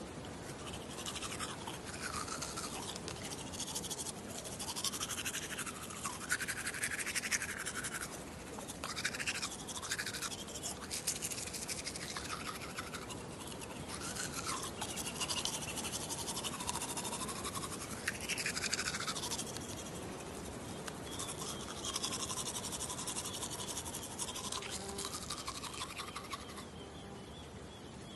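Toothbrush scrubbing teeth close to the microphone: a fast, continuous scratching whose hollow tone keeps sliding up and down as the brush moves around the mouth.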